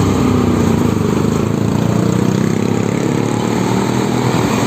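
Diesel truck engine running steadily close by, with an even low rumble.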